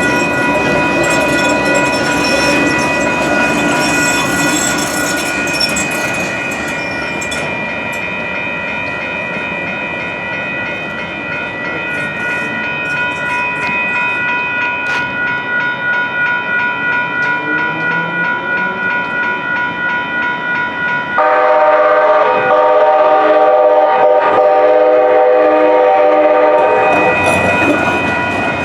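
A train passing over a grade crossing, with wheels clicking over the rails and the crossing's warning bell ringing in a steady pulse. About 21 seconds in, a train horn sounds abruptly and is held for about six seconds.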